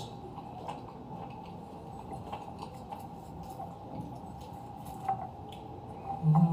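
Eating sounds at a table: faint scattered clicks of a spoon against a dish, and wet chewing noises. Near the end comes a short, low hummed "mm".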